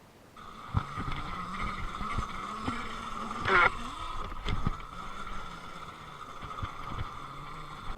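Electric dirt bike's motor whining steadily at a high pitch as it is ridden, with a lower hum under it. Several sharp knocks from the bike hitting bumps, and a brief loud harsh burst about three and a half seconds in.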